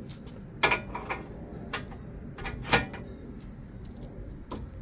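Metal tool being turned with an adjustable wrench on the car's front suspension: a few sharp metallic clicks and knocks with short ringing, the loudest a little under a second in and again near the three-second mark.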